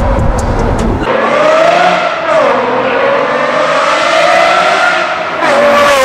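Aston Martin Vantage V12 with a Secret Weapon exhaust accelerating hard under load, its engine note rising through the revs. The pitch drops sharply about two seconds in and again near the end, as the manual gearbox is shifted up, and climbs again after each shift.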